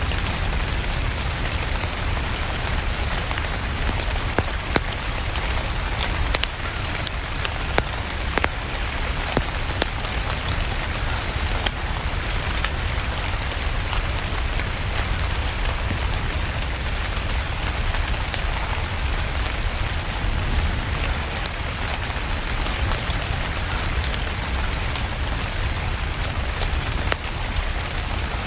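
Steady rain over a low rumble, mixed with a wood fire crackling in scattered sharp snaps.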